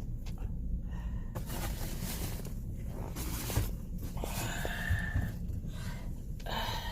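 Low, steady rumble of a car cabin on the move over a rough dirt road, with a few soft knocks and jolts.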